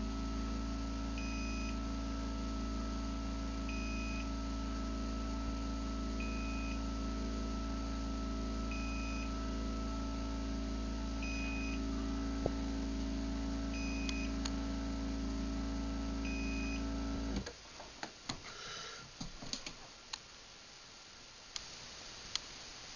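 Craftsman DC belt-drive garage door opener closing on battery backup power: a steady motor hum with a short beep about every two and a half seconds, the opener's signal that it is running on battery. The motor stops abruptly about seventeen seconds in, followed by a few faint clicks.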